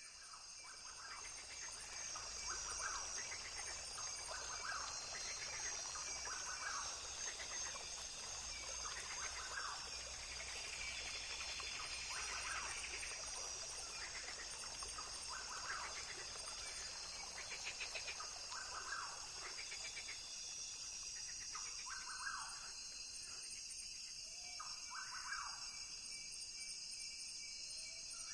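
Rainforest ambience: a steady, high-pitched insect chorus, with short animal calls repeating every second or two.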